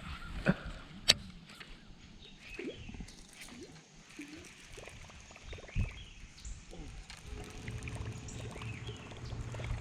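Quiet sounds of a fishing boat on the water: a couple of sharp clicks in the first second, then faint scattered knocks and water sounds. A low steady motor hum comes in about seven seconds in.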